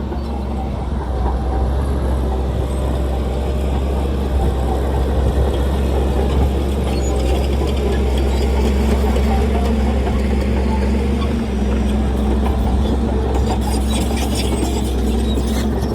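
Heavy diesel earthmoving machinery running steadily with a deep, constant engine hum, and a spell of clicking and rattling near the end.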